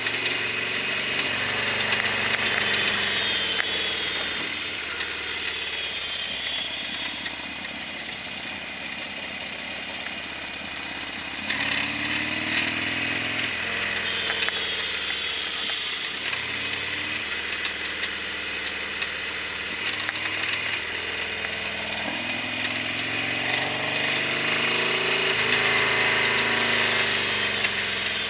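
Harley-Davidson Sportster XL1200R's 1200 cc air-cooled V-twin running, its pitch rising and falling several times as the revs change.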